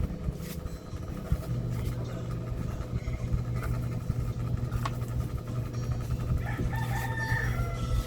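A rooster crows once near the end over a steady low hum, with scattered sharp clicks throughout.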